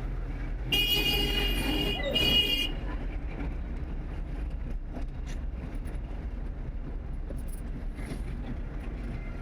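Street traffic with a steady low engine rumble. A high-pitched vehicle horn sounds twice, a long toot about a second in and a short one right after.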